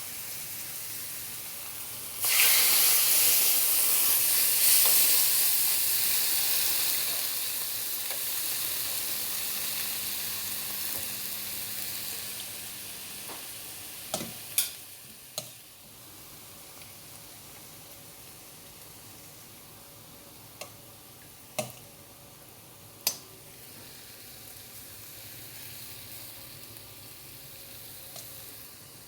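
Chicken breast frying in hot oil: a loud sizzle starts suddenly about two seconds in as the meat goes into the pan, then slowly dies down to a quieter, steady sizzle. A few sharp clicks come in the middle.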